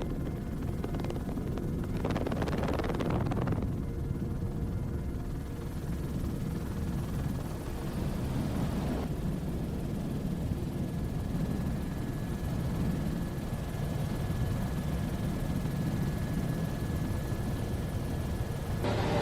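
Aircraft engine drone, low and steady, with louder rushes of noise about two and eight seconds in.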